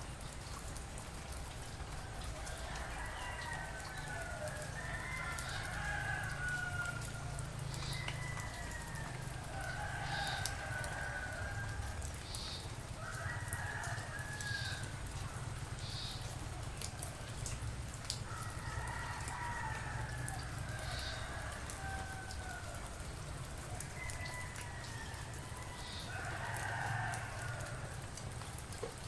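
Several roosters crowing, their long calls overlapping and following one another, over a steady soft rain hiss.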